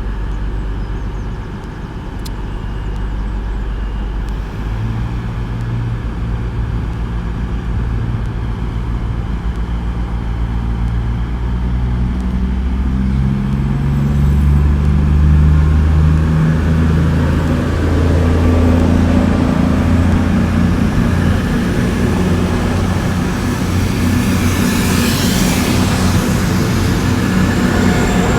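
Underfloor diesel engines of a pair of coupled Voyager diesel multiple units (Cummins engines) pulling away under power. The engine note climbs in pitch in several steps and grows louder, with a brief rushing hiss near the end.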